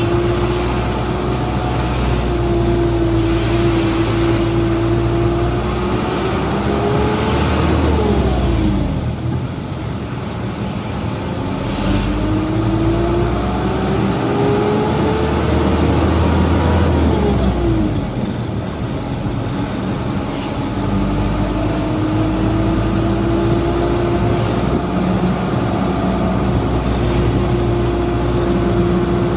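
Dump truck engine accelerating through the gears. Its pitch climbs steadily, falls away sharply at a gear change about eight seconds in and again about seventeen seconds in, then climbs again.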